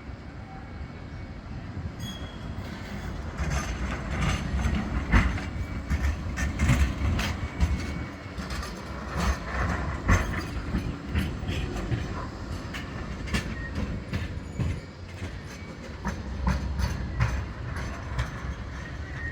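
A tram running past on street rails: a low rumble with many sharp clicks and knocks from the wheels on the track.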